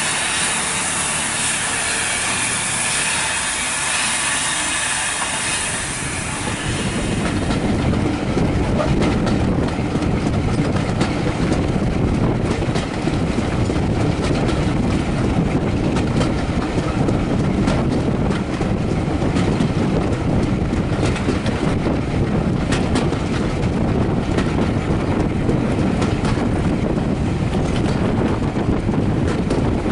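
Train passing at speed on a heritage steam railway: a loud hiss for the first six or seven seconds, then the carriage wheels clattering over the rail joints in a steady rapid rumble.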